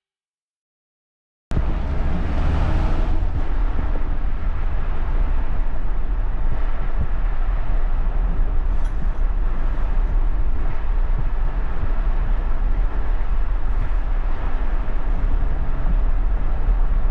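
Steady low rumble of a moving vehicle, cutting in abruptly about a second and a half in after a moment of silence.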